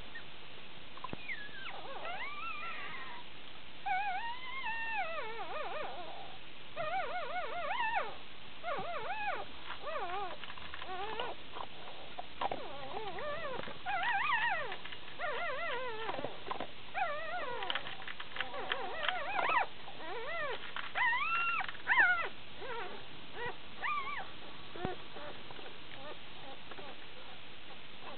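Newborn Shiba Inu puppies squealing and whining in short, high, wavering cries, several pups at once, while they nurse. The cries stop a few seconds before the end.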